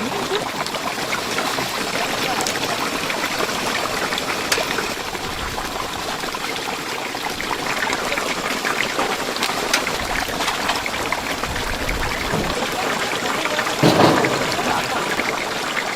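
Chicken deep-frying in a vat of hot oil: a steady, even sizzle.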